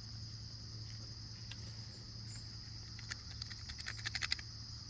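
Steady high-pitched chirring of crickets or other insects, with a quick run of faint clicks or rustles about three seconds in.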